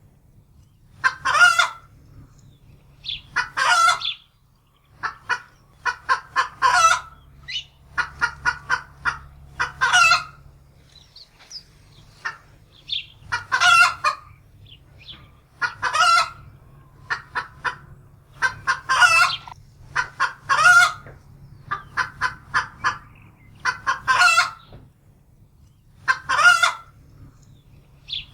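Domestic hen cackling in alarm: runs of quick clucks, each ending in a longer, louder squawk, repeating every two to three seconds over a faint low hum.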